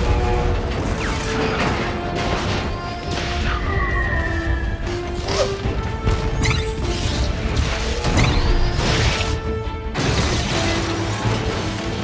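Action-film soundtrack: a music score under explosions, crashes and mechanical sound effects. Sudden hits come every second or two, with several sliding whines rising and falling.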